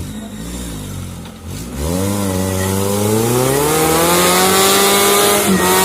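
Suzuki Jimny 4x4's engine revving up about two seconds in, then held at high revs under load, with a hiss of tyres or spray on top.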